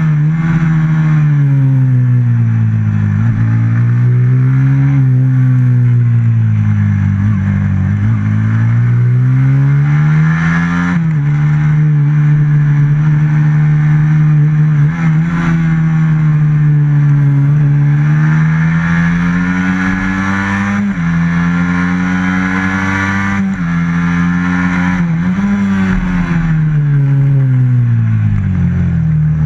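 Racing motorcycle with a stock FXR150 engine, heard on board at full load. The engine note climbs and falls again and again as the rider accelerates out of corners and backs off into them, with a few sudden jumps in pitch at the gear changes.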